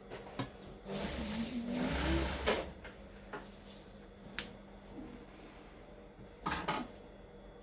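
Sewing machine running in one short burst of about a second and a half, followed by a few sharp clicks and knocks.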